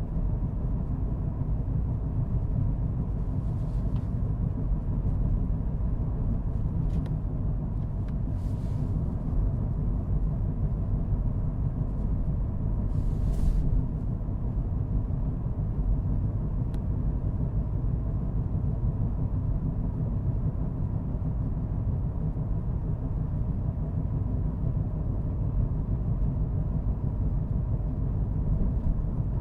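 A car driving at steady speed, its engine and tyres making a constant low rumble. A few brief, faint hissing sounds come and go about 8 and 13 seconds in.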